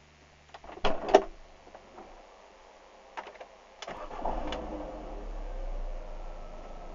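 Mini Cooper 1.6's four-cylinder petrol engine heard from inside the cabin: a few sharp clicks about a second in, then the engine starts about four seconds in and settles into a steady idle.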